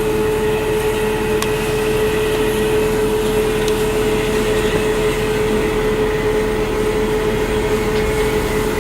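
Steady rumble inside a Welsh Highland Railway narrow-gauge carriage, with a constant hum running through it and a few faint clicks.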